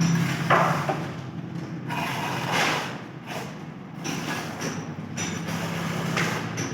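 Scraping strokes and light knocks of tile-setting work, over a steady low hum.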